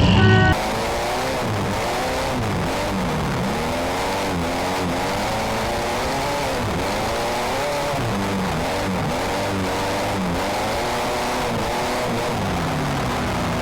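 Several car engines revving hard, their pitch rising and falling over and over, over a steady noisy background; typical of compact demolition-derby cars in a heat. The sound cuts in suddenly about half a second in.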